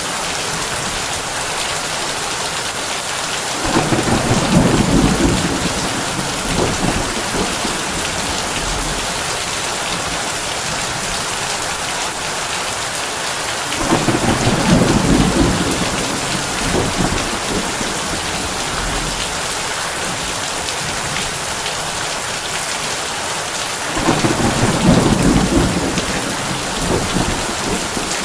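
Heavy rain falling steadily on a tin roof, with three low rolls of thunder about ten seconds apart, each lasting a few seconds.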